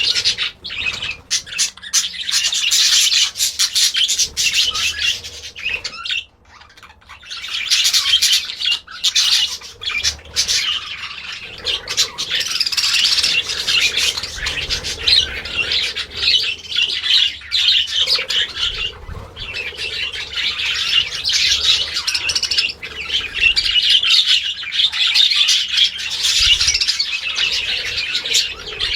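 A flock of birds chirping and squawking, many calls overlapping in a continuous high chatter, with a brief lull about six seconds in.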